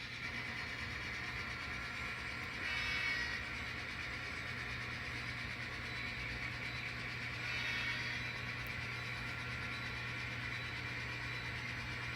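N scale model train running on the layout's track during yard switching: a steady hum, with two brief louder swells about three and eight seconds in.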